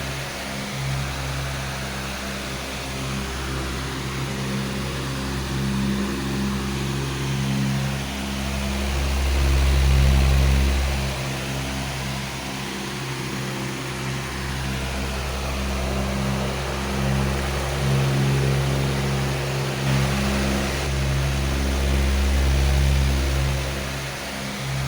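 Powerful electric fan running steadily: a motor hum with a rush of moving air, the low rumble slowly swelling and easing.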